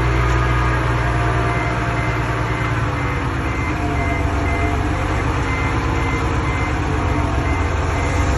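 Komatsu D20P bulldozer's diesel engine running steadily under work, its low note shifting about three seconds in, with a reversing alarm beeping faintly and regularly.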